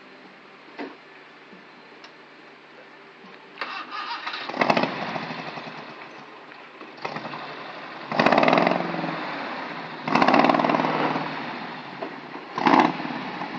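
Toyota Kijang Super KF50's engine starting about three and a half seconds in, then revved in several short blips, each rising sharply and dying back toward idle.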